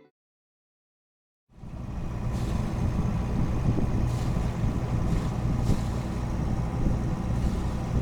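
A sailboat's engine running steadily under way, with wind on the microphone. It starts about a second and a half in, after a moment of silence.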